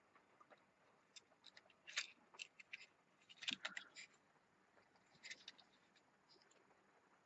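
Faint, scattered clicks and light scrapes of a small die-cast toy truck being handled, in a few short clusters about two, three and a half and five seconds in.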